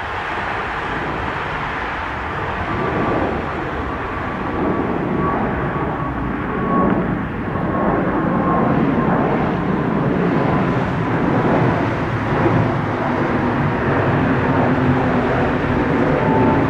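Aircraft engines running as a plane passes, a steady rush of noise that grows gradually louder, with a faint high whine that slowly falls in pitch.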